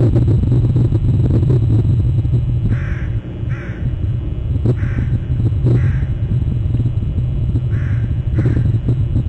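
Bird calls, crow-like caws, mostly in pairs about half a second apart, repeating every second or two over a steady low rumble.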